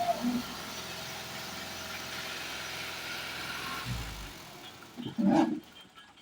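A tractor engine running steadily, fading after about four seconds, then a short, loud sound about five seconds in.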